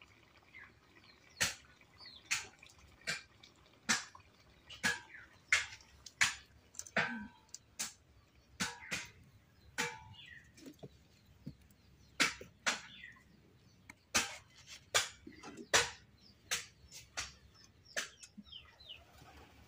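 A bird calling with short, sharp chirps, roughly one a second.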